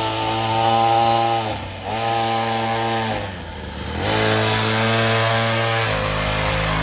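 Small 50cc pull-start pit bike engine running under throttle, easing off and picking up again twice: once about a second and a half in, and more deeply around three to four seconds in.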